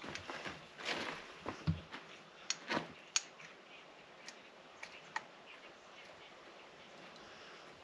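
Light clicks and taps of small chainsaw engine parts and tools being handled during piston assembly, a quick cluster in the first three seconds, then a few single clicks about four to five seconds in.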